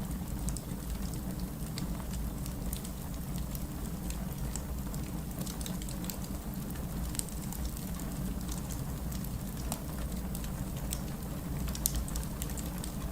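Wood fire crackling with scattered sharp pops, several a second, over a steady low rush of rain.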